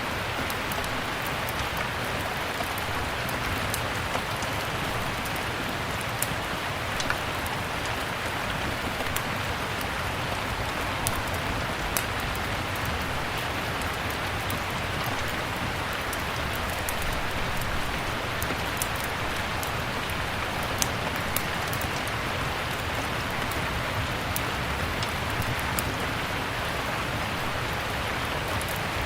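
Steady rain hiss with scattered sharp crackles and pops of a wood fire burning in a fireplace.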